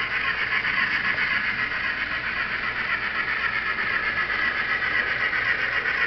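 N scale model steam locomotive running on the layout: a steady whir from its small motor and gearing, with its wheels rolling on the track.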